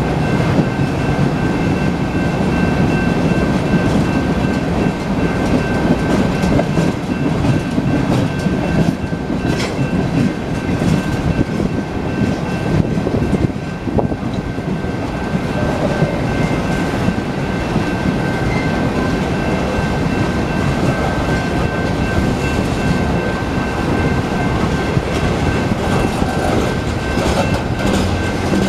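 Freight train cars rolling steadily past over the rails, with a rumble and clickety-clack of wheels over rail joints. Thin steady high-pitched tones run through it.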